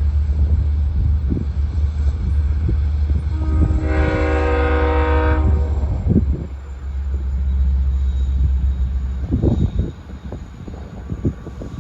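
Long Island Rail Road diesel train running with a steady low engine rumble, its horn sounding once for about two seconds midway. The rumble falls away about six seconds in, leaving scattered knocks and rattles.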